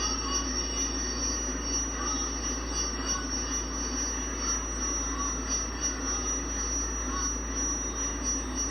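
A steady, unchanging high-pitched whine of several held tones over a low hum and hiss.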